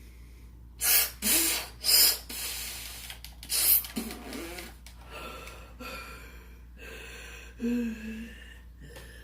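A person gasping and breathing hard. Several loud, short noisy bursts come in the first four seconds, with brief grunts in between.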